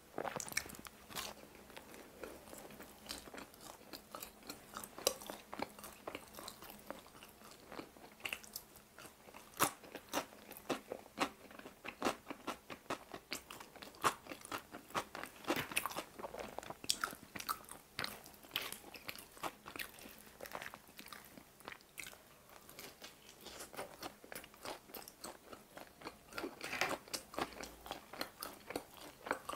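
A person biting and chewing pizza with a crisp, crunchy crust. Many small irregular crunches and bites follow one another, with a few louder ones scattered through.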